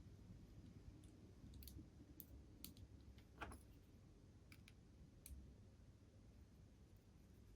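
Faint, scattered clicks of small tools and small metal parts being handled during model-locomotive assembly, about seven over several seconds, against near silence.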